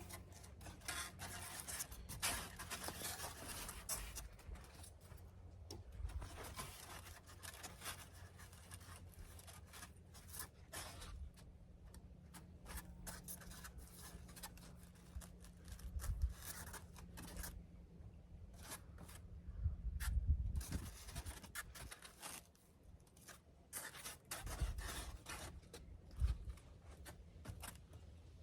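Foam insulation board being handled and cut: irregular scraping and rustling with a few soft thumps.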